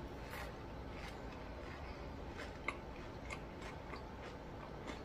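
Close-miked chewing of crunchy fried food, with scattered soft crunchy clicks that come more often in the second half.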